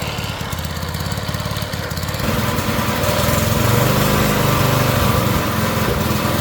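Small petrol engine test-running after a repair, running smoothly; about two seconds in it is throttled up and holds at the higher speed.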